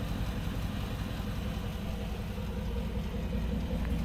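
2019 Dodge Charger Scat Pack's 6.4-litre HEMI V8 idling with a steady low rumble.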